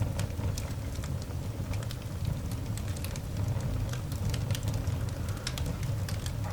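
Coal fire burning in a cast iron dog grate: irregular sharp crackles and pops, some louder than others, over a steady low rumble.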